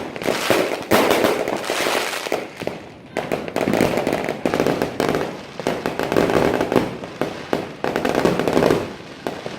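Fireworks going off in a dense, continuous barrage of bangs and crackling, swelling and easing off in several waves.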